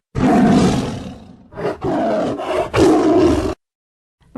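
Tiger roaring: a long, rough roar followed by two shorter ones, cutting off about three and a half seconds in.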